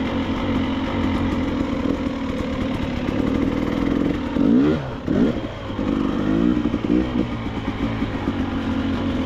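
Two-stroke dirt bike engine, a KTM 300 XCW, running at low speed, with a few quick throttle blips rising and falling in pitch around the middle.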